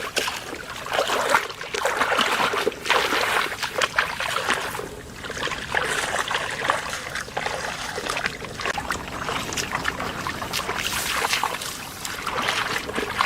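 Shallow floodwater sloshing, trickling and splashing irregularly as it is stirred through.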